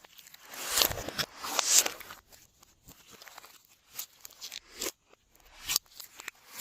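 Glossy slime being squeezed and stretched by hand, giving irregular sticky crackles and tearing sounds, loudest about one to two seconds in.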